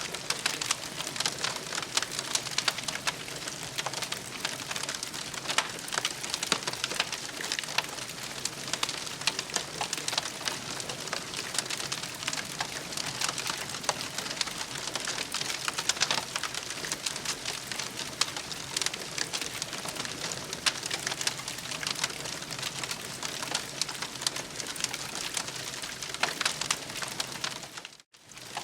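Campfire crackling: a dense, steady run of small pops and snaps over a soft hiss, cutting out briefly near the end.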